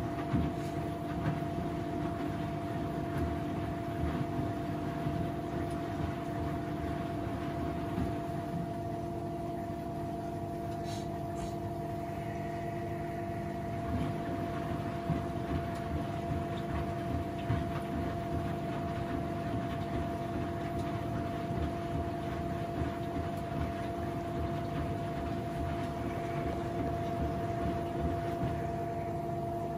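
Washing machine running: a steady motor hum with a low rumble and small irregular knocks.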